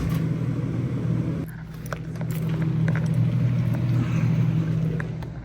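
A steady low mechanical hum that fades out near the end, with a click at the start.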